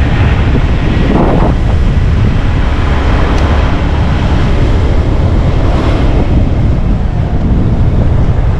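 Wind buffeting the microphone of a moving motorcycle, a loud, steady rumble heaviest in the low end, with the bike's road and engine noise beneath it.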